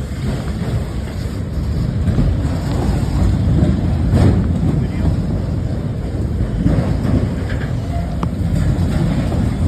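A loaded freight train running, a steady heavy low rumble with wind noise on the microphone and a couple of brief clanks.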